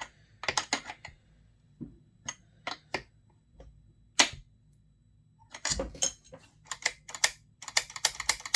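Hand tools and metal parts clicking and knocking against each other while a carburetor is fitted to a chainsaw. The clicks are scattered at first, then come in a quick run near the end.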